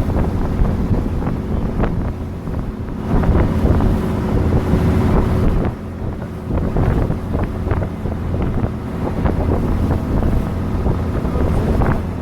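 Wind buffeting the microphone over the steady hum of a motorboat's engine and the rush of water.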